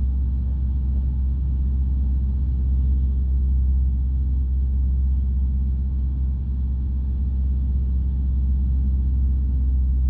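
A light aircraft's piston engine and propeller droning steadily in cruise, heard from inside the cockpit.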